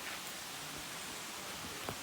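Steady rushing hiss of a waterfall, with a single short knock near the end.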